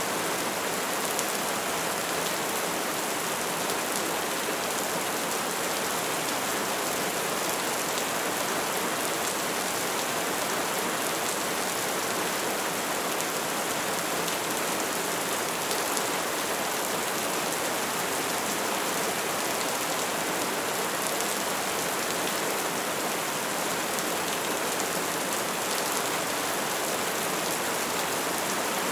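Steady soft rain falling on a surface, a constant even hiss with fine pattering of drops.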